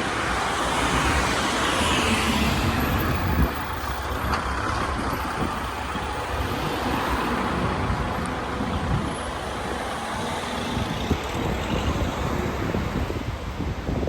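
Steady street traffic noise, with a vehicle passing in the first few seconds.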